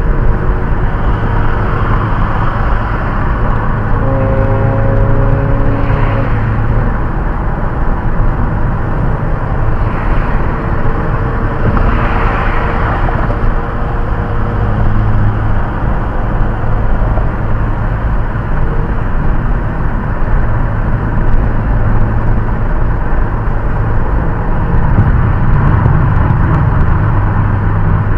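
Steady road and engine drone inside a Ford Focus ST's cabin while driving, with two brief swells about ten and twelve seconds in.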